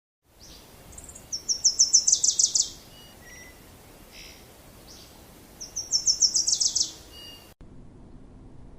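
A songbird singing two phrases of rapid, high trilled notes, each about a second and a half long and a few seconds apart, over outdoor background ambience. The recording cuts off abruptly near the end, leaving a quieter, different background hum.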